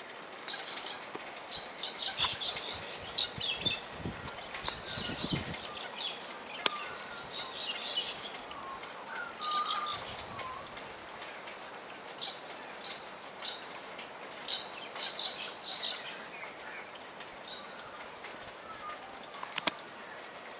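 A small bird chirping in short, high, rapid clusters, with a brief whir of wings about four seconds in.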